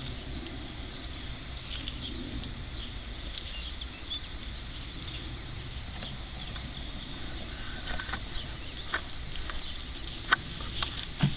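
Steady low rumble with scattered light clicks and snaps, two sharper ones near the end.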